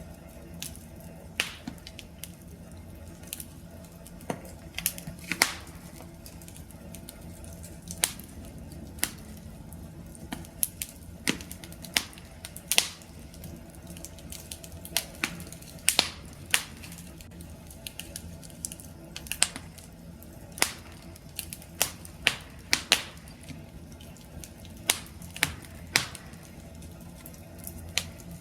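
Wood campfire crackling: sharp pops and snaps at irregular intervals, often several a second, over a low steady rumble of the burning fire.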